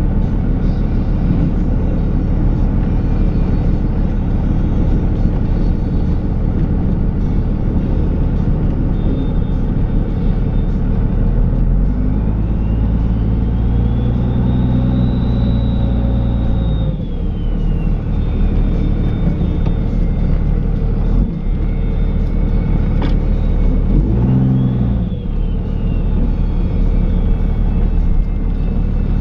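Dodge Ram's Cummins diesel engine running steadily while plowing snow. About halfway through a whine rises and falls over a few seconds along with a heavier low drone, and a shorter one comes near the end.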